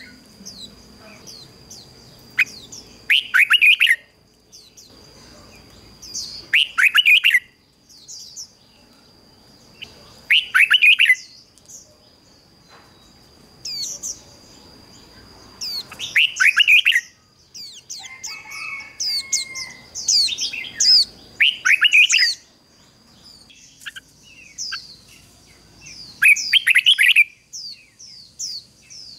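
Red-whiskered bulbul singing: loud, quick phrases of falling notes repeated every few seconds, with softer high chirps between them. A steady high-pitched tone runs underneath.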